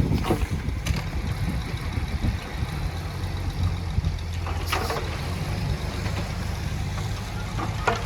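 Heavy diesel engine of earthmoving machinery running steadily at low revs, with a few brief clatters near the start and about halfway through.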